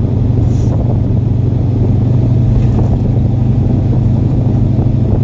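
A 1978 truck driving at steady speed, heard from the cab: its engine and drivetrain make a steady low drone.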